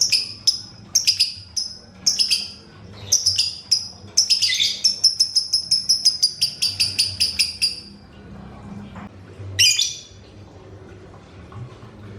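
Lovebird calling: sharp, high chirps a couple of times a second, running about four seconds in into a rapid chattering series of some five calls a second that stops about eight seconds in, then one more call shortly after.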